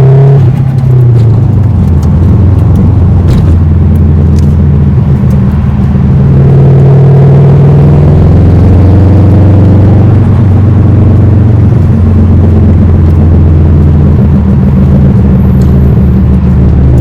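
Car driving: a steady, loud engine and road rumble whose pitch shifts a little as it goes.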